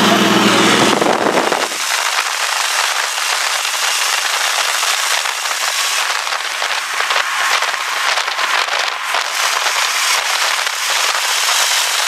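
A car engine running for a moment, then cutting off sharply about two seconds in to a dense, steady crackling hiss with no low end.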